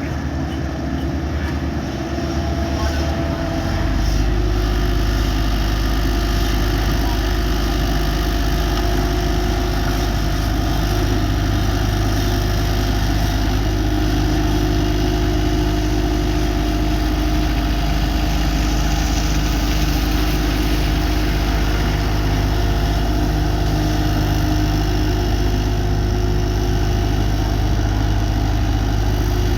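Diesel engine of heavy paving machinery running steadily, its low rumble swelling about four seconds in and then holding.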